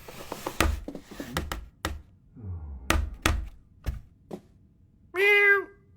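A run of thuds and knocks, some led in by a short falling tone, followed about five seconds in by one brief pitched sound that rises and falls.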